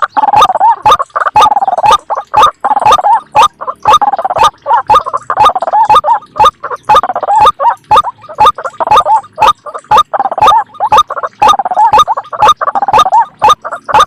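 White-breasted waterhen lure call: a recording of the bird's repeated calls played back to draw waterhens to a snare. A loud, unbroken run of calls, cut by sharp clicks about two or three times a second.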